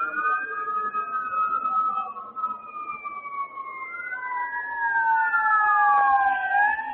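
Fire truck sirens wailing: several sirens at once, each gliding slowly up and down in pitch, overlapping out of step and growing louder toward the end.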